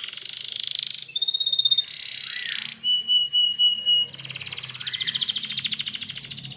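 Domestic canary singing: fast rattling trills alternating with held, steady whistled notes, with a long rapid trill in the second half.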